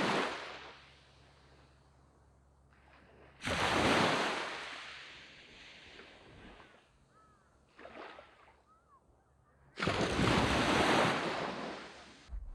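Waves breaking on a sand beach, one at a time. One dies away at the start, a louder break comes suddenly about three and a half seconds in and hisses out over a few seconds, a small one follows near eight seconds, and another loud break comes about ten seconds in.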